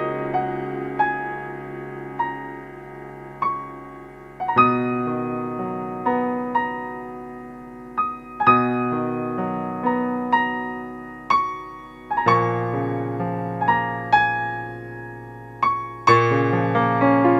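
Slow, gentle piano music: a new chord struck about every four seconds with single melody notes ringing and fading between them.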